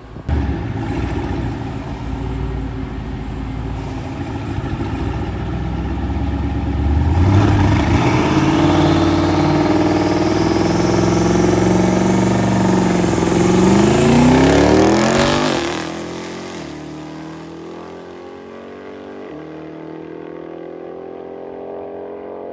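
Twin-turbo Hemi V8 accelerating hard down the strip, getting louder through the first half, its pitch climbing steeply near the middle, then cutting off suddenly. A quieter, lower engine note carries on afterward, shifting in pitch in small steps.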